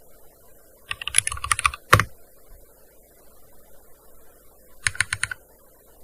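Typing on a gaming keyboard: a quick run of keystrokes about a second in that ends in one louder key strike, then a pause and a short burst of a few keys near the end.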